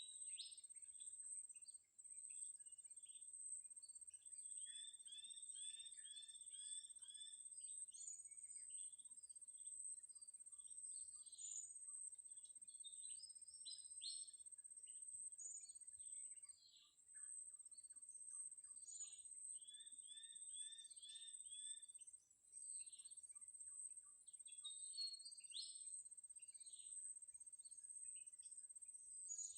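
Small birds chirping and twittering in many short calls, including quick runs of repeated notes, over a steady, evenly pulsing high-pitched tone.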